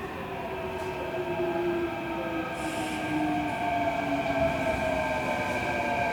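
Kintetsu electric commuter train pulling into the station, its traction motors whining in several tones that fall slowly in pitch as it brakes and grows louder. A short hiss of air comes about two and a half seconds in.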